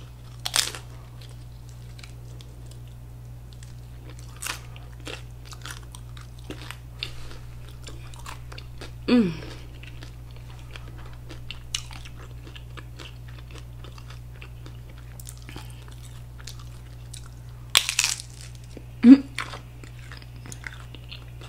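Close-miked crunching and chewing of a hard-shell taco: a crisp bite about half a second in, then a steady stream of small crunches and mouth sounds, and another loud crunch near the end. Twice a short hum of the voice with falling pitch, over a steady low background hum.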